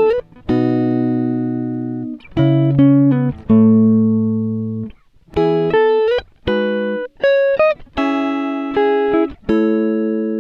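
Background music: a guitar plucking chords and single notes, each starting sharply and ringing out as it fades, in short phrases broken by brief gaps.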